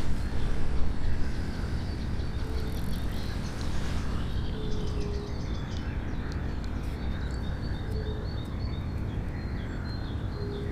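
Birds calling over a steady low background rumble: a short low note repeating about every two and a half seconds, joined in the second half by a run of quick high chirps.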